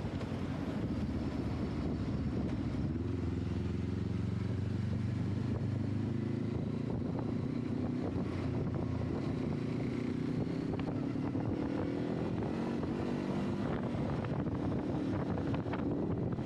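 Motorcycle engine running steadily, its pitch gradually rising through the middle and then holding, as the bike rides along.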